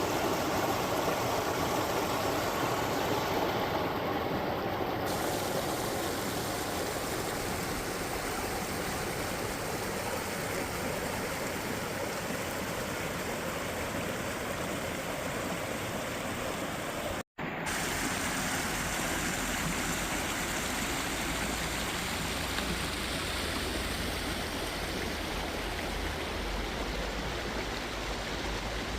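Steady rush of a waterfall and fast-flowing water. It cuts out for an instant about two-thirds of the way through and resumes, with a deeper low rumble added in the later part.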